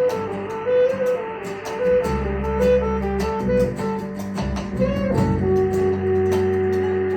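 Live guitar music: a repeating line of picked notes over a low bass, with a bend about five seconds in, then a note held to the end.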